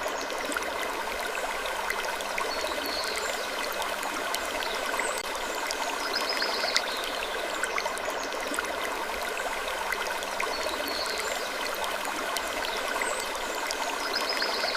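Steady trickling, stream-like water noise with many small ticks through it, and a faint short sound recurring every two to three seconds.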